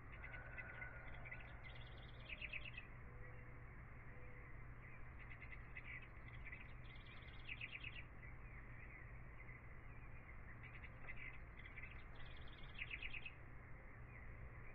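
Faint birdsong: a bird repeats a quick run of chirps about every five seconds, three times, over a low steady hum.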